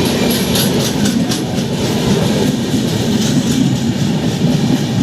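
Indian Railways train passing close by, with a loud, steady rumble of wheels on the rails and scattered clacks over the rail joints.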